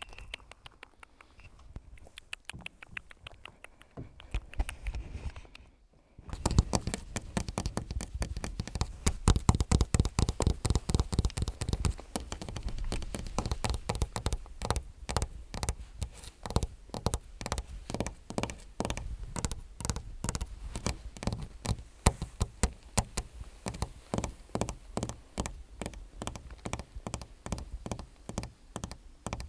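Long fingernails tapping quickly and continuously, with many light clicks each second. The taps are faint for the first few seconds and become louder and denser about six seconds in.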